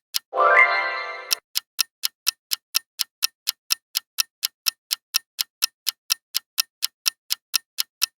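Clock-like countdown ticking sound effect, about four ticks a second. About a third of a second in, the ticking breaks off for a loud, roughly one-second musical sound effect that sweeps upward and fades, then the ticking resumes.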